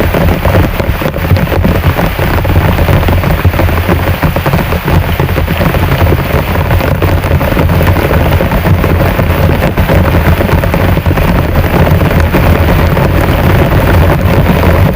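Heavy rain falling steadily, a dense continuous patter of drops with no let-up.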